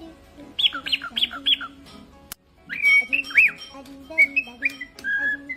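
Pet cockatiel whistling and chirping in quick short notes that rise and fall. About two seconds in there is a click and a brief break, then more whistled notes.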